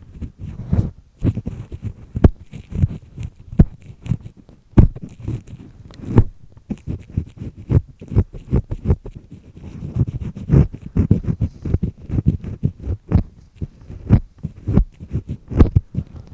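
Earpick scraping inside a human ear canal: irregular, gritty strokes and sharp clicks as it grates over skin and wax.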